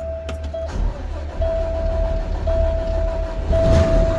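Garbage truck engine running just after start-up, a steady low rumble. A steady single-pitch warning tone in the cab sounds on and off over it, with short breaks.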